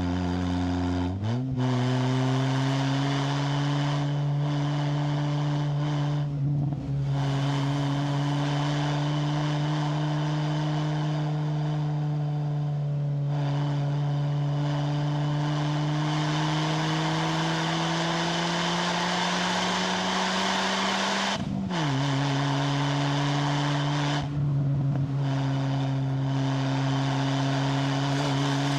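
Four-cylinder 4B11 MIVEC engine running through a MAX Racing R5500 exhaust muffler, pulling under load uphill. The revs jump up about a second in, then rise slowly and steadily. They drop sharply at a gear change about three-quarters of the way through and then hold steady.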